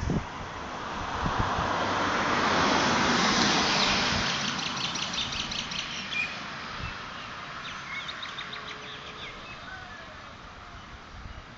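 Small birds chirping in quick repeated trills over a rush of noise that swells over the first few seconds and then slowly fades away.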